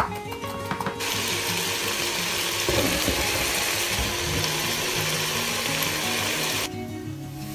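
Strips of beetroot sizzling in a hot frying pan. The sizzle starts about a second in and cuts off near the end. Right at the start there is a single knife chop on a wooden board.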